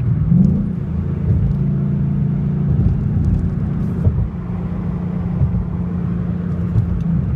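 2012 Ford Mustang GT's 5.0-litre V8 through an MBRP Race Series cat-back exhaust, heard from inside the cabin while driving in third gear. There is a brief rise in revs just after the start, then a steady deep exhaust drone.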